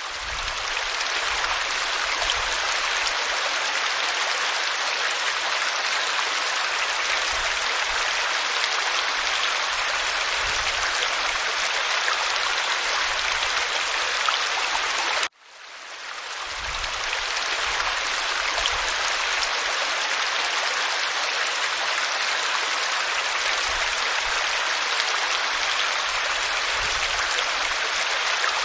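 Waterfall pouring over rock, a steady dense rush of water with faint low rumbles underneath. About 15 seconds in the sound cuts out for an instant and swells back in over a second or so, where the recording loops.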